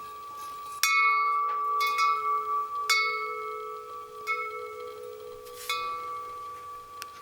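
A bell-like metal object struck about six times at uneven intervals, each strike ringing on in long, steady tones.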